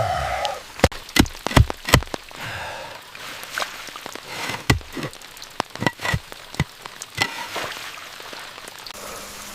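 Rain falling steadily, with a run of irregular sharp knocks and taps that thin out about two-thirds of the way through.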